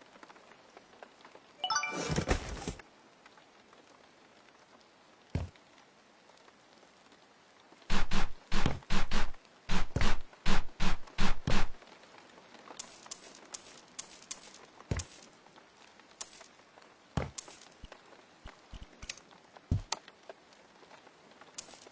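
Hands-on cabin renovation work: a brief creak or scrape, then a run of about ten sharp knocks in four seconds, followed by lighter clinks and taps.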